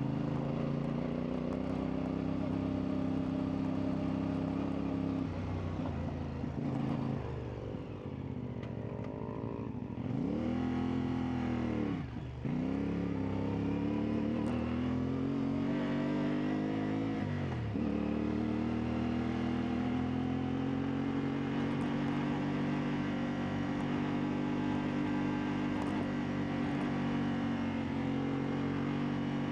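CfMoto 450MT's parallel-twin engine running under throttle while riding off-road. The revs rise and fall several times in the first eighteen seconds, with a sharp drop about twelve seconds in, then hold steady.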